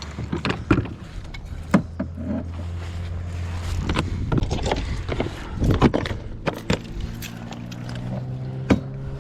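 A motor vehicle engine running with a steady low hum that changes pitch partway through, under scattered knocks and clatter of gear being handled.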